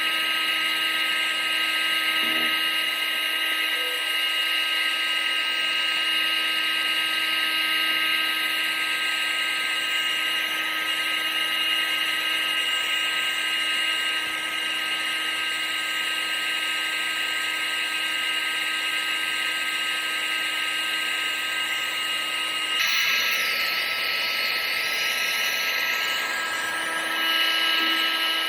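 Vacuum cleaner running continuously: a steady rush of air with a high motor whine. The tone of the hiss shifts about two-thirds of the way through.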